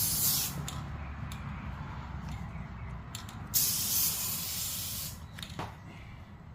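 Aerosol spray adhesive hissing from a can in two bursts: a short one at the start and a longer one of about a second and a half midway, with a few light clicks in between.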